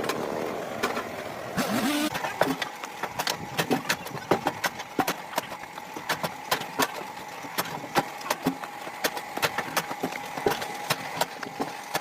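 A steady machine hum with many irregular sharp clicks and knocks, several a second.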